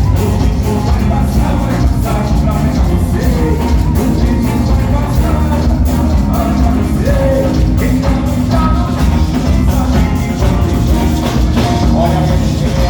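Loud carnival music from a group with drums and singing, playing continuously with a steady beat.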